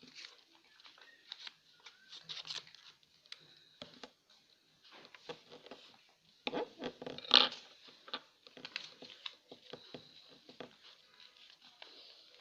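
Sheet of paper rustling and crinkling as it is handled and folded by hand, with sharp creasing crackles; the loudest crinkling comes about six and a half to seven and a half seconds in.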